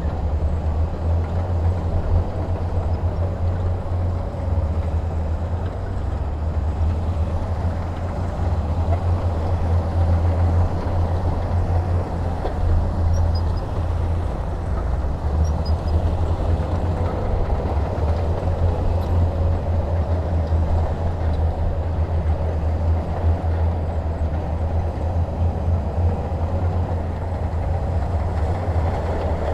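Heavy diesel machinery running steadily, a deep continuous rumble with no pauses.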